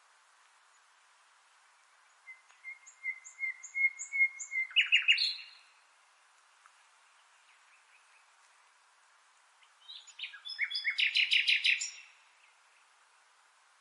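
A songbird singing two phrases, each a string of short high notes that speeds up into a fast, loud trill, with a quiet pause of several seconds between them; a faint steady hiss lies underneath.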